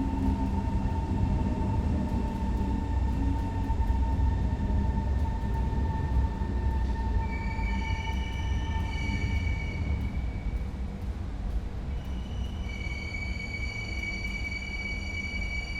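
A train running on rails: a heavy low rumble, with high steady squealing tones, typical of wheels on track, coming in about seven seconds in and again near the end.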